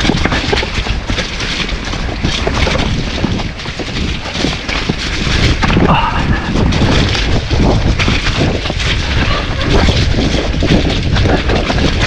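Wind buffeting an action camera's microphone during a mountain-bike descent, a constant rumble with many short knocks and rattles from the Nukeproof Giga bike and its tyres over rough, wet trail.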